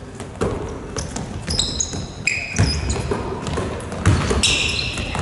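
A ball bouncing on a gymnasium floor, a few separate thuds, mixed with short high squeaks from shoes on the court, in a large echoing hall.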